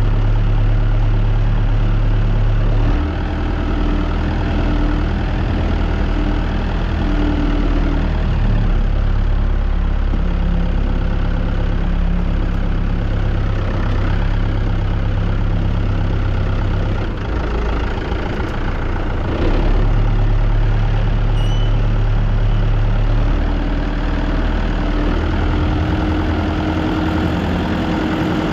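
Tractor engine running steadily, its pitch stepping up and down several times as the engine speed changes.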